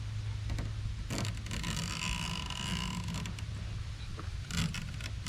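Small razor blade cutting screen mesh along its edges, with creaking and a few small clicks from handling the screen.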